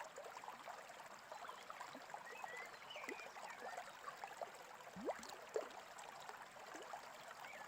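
Faint babbling brook, water trickling and gurgling steadily, with a few small bird chirps over it.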